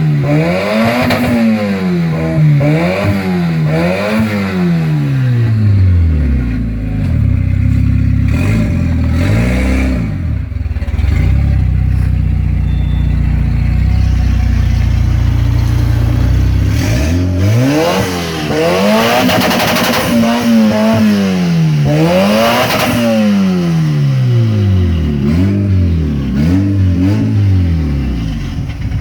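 Engine of an engine-swapped Chevrolet Cruze (Evo engine) being revved in quick blips, its pitch rising and falling several times. It settles to a steady idle for about ten seconds, then is blipped again repeatedly.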